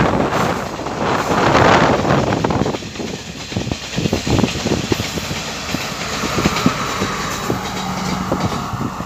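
Diesel multiple-unit passenger train passing close by: a loud rush as the leading power car goes past, then the coaches' wheels clicking over the rail joints, with a steady engine hum coming in near the end as the rear power car passes.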